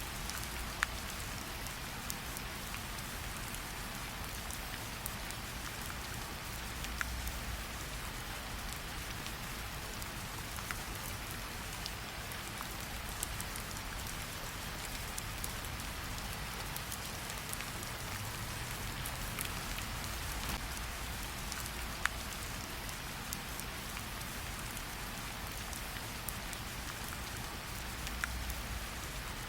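Steady rain falling in an even hiss, with a low rumble underneath and a handful of sharp, isolated pops from a crackling campfire.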